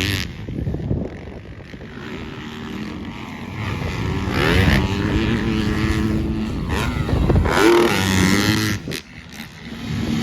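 Motocross dirt bike engines revving up and down through the throttle, the sound dropping away about a second in and again near the end before rising once more.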